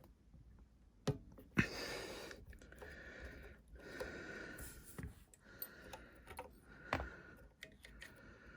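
Faint handling noise from work on a vacuum cleaner motor, with a few sharp clicks, as a part is unscrewed to free the motor's bulging capacitor.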